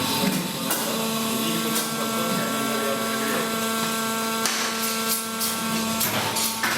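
CNC pipe bending machine running, a steady electric whine of several tones with a few knocks as it moves.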